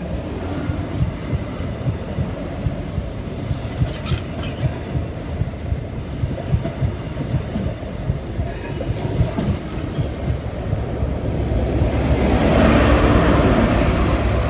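First Great Western High Speed Train (InterCity 125) running past the platform: its Mark 3 coaches rumble and click regularly over the rail joints, with a couple of brief high wheel squeals. Near the end the diesel engine of the rear Class 43 power car passes close and becomes the loudest sound.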